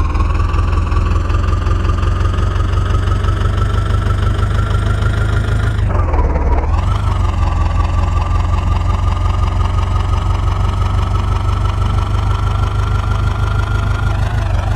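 John Deere 5055 tractor's diesel engine running steadily with a heavy low rumble, its pitch creeping slowly upward. The pitch drops briefly about six seconds in, then climbs again.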